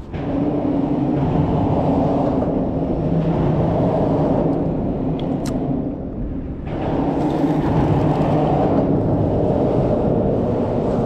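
Vehicles crossing a bridge overhead: a loud, steady rumble with a low engine drone, in two long passes with a brief dip about six seconds in.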